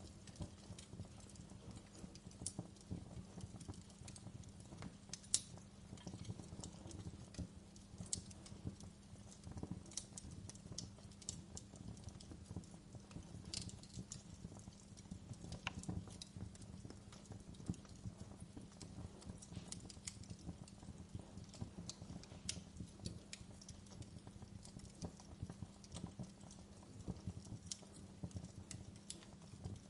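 Wood fire burning in a fireplace, giving irregular crackles and small pops with a sharper pop about five seconds in, over a low steady hum.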